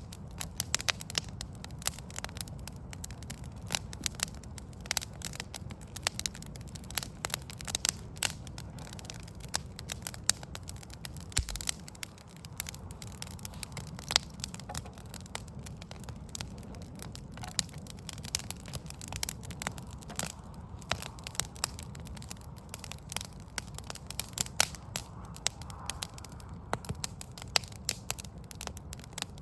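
Backyard wood fire of burning logs crackling, with frequent irregular sharp pops and snaps over a low, steady background rumble.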